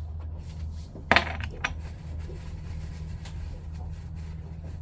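A small metal part clinks sharply against a hard surface about a second in, ringing briefly, followed by a lighter click. A steady low hum runs underneath.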